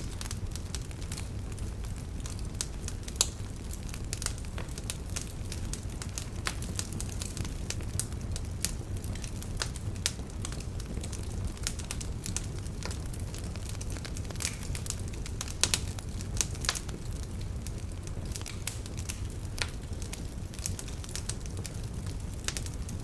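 Wood fire burning in a fireplace: a steady low rumble with irregular crackles and a few sharper pops from the burning logs.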